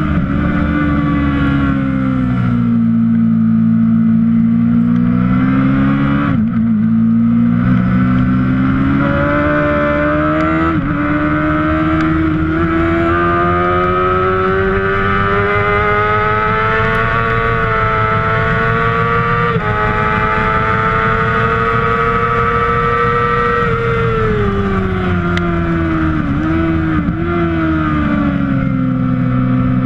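Kawasaki ZX-6R 600cc inline-four race engine at racing speed: the pitch falls at the start, then climbs through the gears with sudden drops at upshifts about six, eleven and twenty seconds in. Around twenty-five seconds it falls again with short throttle blips on downshifts, then rises once more near the end.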